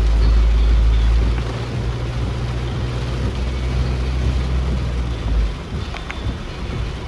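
A vehicle driving in heavy rain: a steady low engine and road rumble under an even hiss of rain and wet tyres. The rumble eases off about five and a half seconds in.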